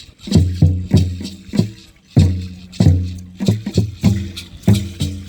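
Mexica dance drumming: deep drum strokes in a quick, uneven rhythm, each stroke booming and ringing out, with a dry rattle shaking along. The beat pauses briefly about two seconds in, then resumes with a hard stroke.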